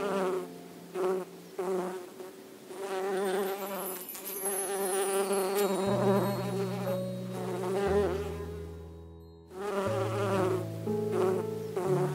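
Bees buzzing close by, the buzz wavering in pitch. It dies away briefly about three-quarters of the way through and then returns. Low held notes sit underneath and shift every couple of seconds.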